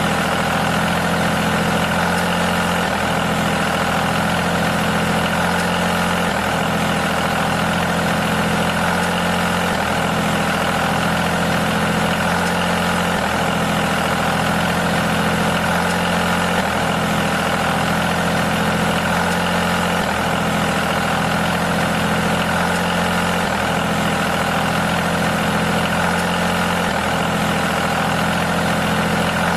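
An engine idling steadily, with a faint hitch repeating about every three and a half seconds.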